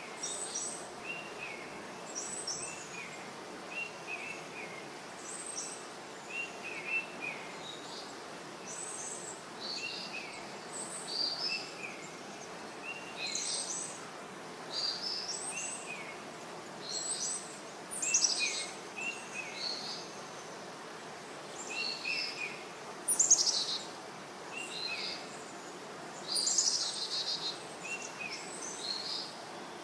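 Small birds chirping and singing: short high calls repeating every second or so, over a steady hiss.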